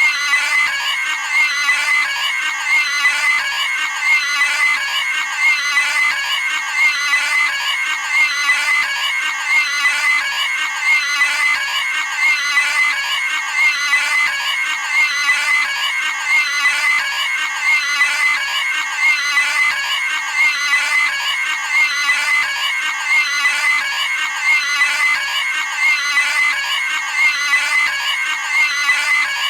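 Cartoon pig squealing: a short, high-pitched scream repeated over and over without a break.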